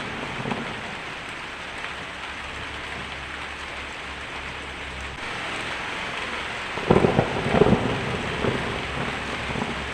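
Heavy rain drumming steadily on a tin roof, with a clap of thunder crackling about seven seconds in, the loudest moment.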